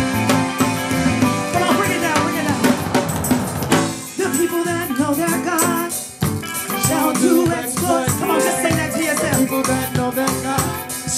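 Live gospel worship band music with drum kit and percussion keeping a steady beat. A wavering melodic line runs over it from about four seconds in.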